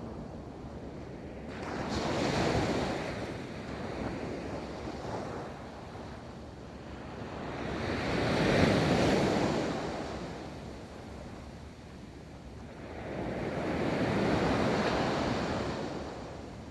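Ocean waves rolling onto a beach: three waves swell, break and wash in about six seconds apart, with a steady rush of surf between them.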